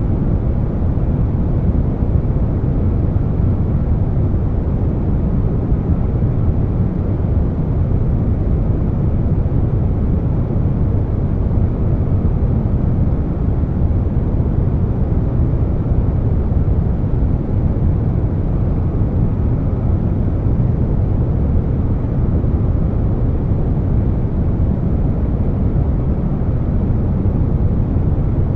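Steady air conditioner noise blended with brown noise: a deep, even rush with no changes.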